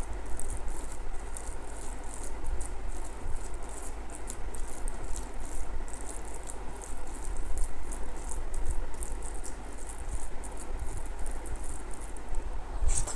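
Close-miked eating sounds: a rapid, irregular run of small wet clicks and smacks of chewing and handling food, with one louder click near the end.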